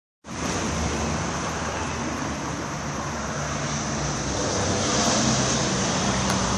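Steady outdoor street noise of road traffic going by, with a constant high hiss over it.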